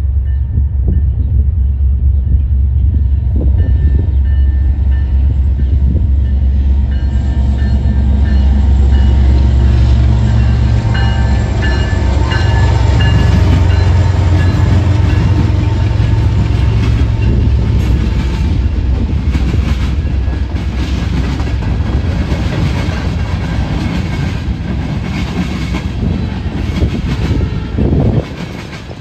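Canadian National freight diesel locomotives passing close by with a loud, deep engine rumble. The train's cars follow, their wheels clicking rhythmically over the rail joints as the rumble fades in the last third.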